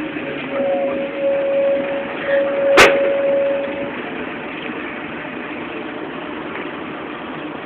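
Scania bus running steadily. A single steady tone, like a buzzer or beep, sounds for about three and a half seconds, and a sharp click comes a little under three seconds in.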